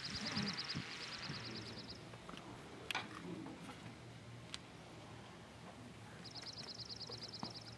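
A small bird's high, fast trill of about ten notes a second, lasting about two seconds at the start and heard again near the end, over quiet outdoor background. A single sharp click about three seconds in.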